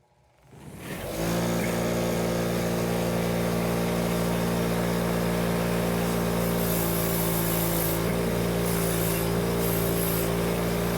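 Electric bench wheel machine spinning up about a second in, then running at steady speed with a constant hum, while lantern parts are worked against the big wheel, adding several stretches of brighter hiss from just past halfway.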